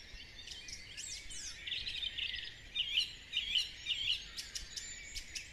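Dawn chorus: many songbirds singing at once, overlapping chirps, whistles and trills, with a rapid trill about two seconds in and a phrase repeated three times soon after.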